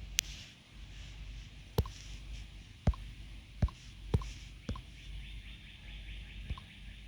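Seven sharp, short clicks at irregular intervals, as of handling a computer or device while looking something up, over a faint steady hiss.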